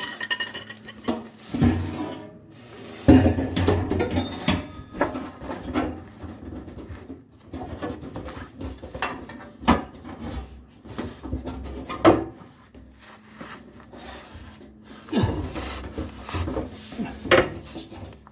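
Irregular clanks, knocks and scraping of tools and parts being handled during repair work on a car, with a few sharper strikes.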